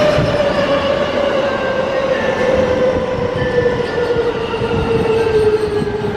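Electric train running along the track with steady rolling noise and a motor whine that falls slowly in pitch, as a train makes while slowing down.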